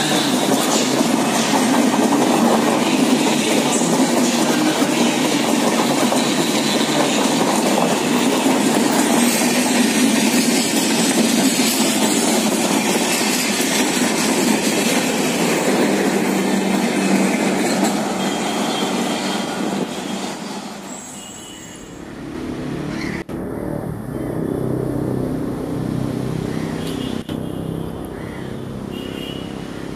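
A long train of passenger coaches running past at speed: a steady, loud rumble of wheels on the rails. It fades away as the last coaches go by, about twenty seconds in. After an abrupt change near the end, a quieter outdoor background follows with a few short knocks.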